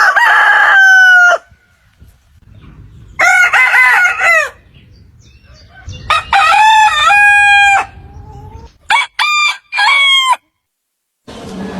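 Rooster crowing: several loud crows one after another with short pauses between them, then three quick shorter calls about nine seconds in.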